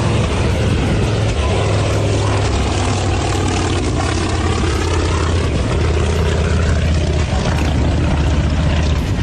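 Small propeller plane's engine droning steadily as it flies low, with a constant low hum and slowly shifting pitch.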